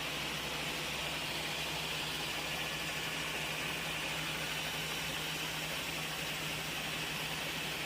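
Sawmill machinery running steadily: a constant low hum with a bright hiss over it and no separate strikes or changes.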